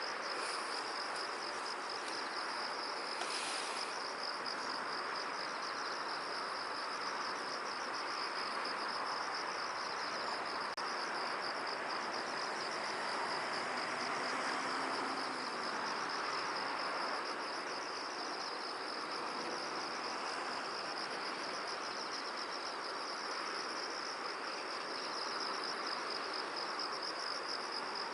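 Crickets trilling continuously in a steady, fast-pulsing high chirr, over an even rushing hiss of field ambience.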